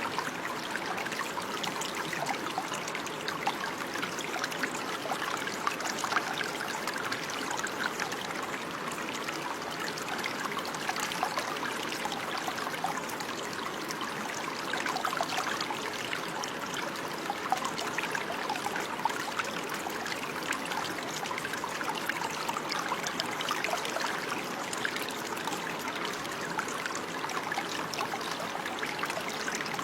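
Running water in a small stream, trickling and babbling steadily over stones, with many small splashes.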